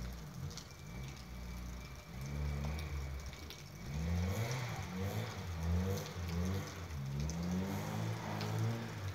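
Rear-wheel-drive Tofaş sedan's engine revving up and down over and over, its pitch rising and falling about once a second, as the car spins its wheels and slides in deep snow.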